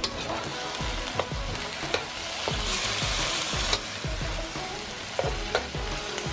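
Chicken strips, bell peppers and onion sizzling in a hot wok as a plastic spatula stirs them, with a steady frying hiss and scattered clicks and scrapes of the spatula against the pan.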